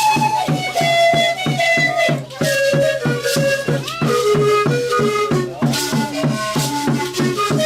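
Pan-flute music over a steady beat of about four strokes a second. The flute plays a melody of held notes that step down and back up, with a rattle shaken at times.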